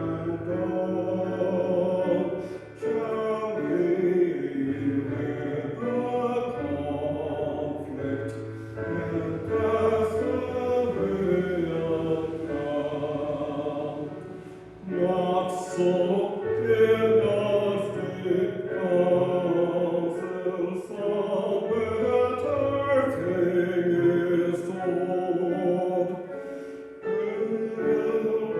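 A congregational hymn sung over held, sustained accompaniment, in phrases of several seconds separated by brief pauses.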